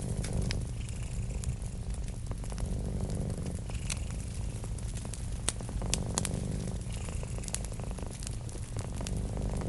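Cat purring steadily in a slow rhythm of breaths, over a wood fire crackling with scattered sharp pops.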